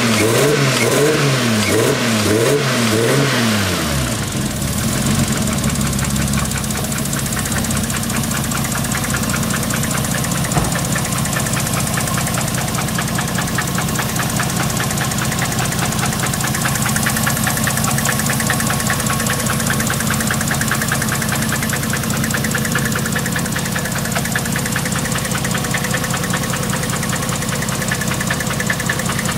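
Single-turbo Toyota 1JZ-GTE straight-six running: revved up and down in quick blips for the first few seconds, then settling into a steady idle.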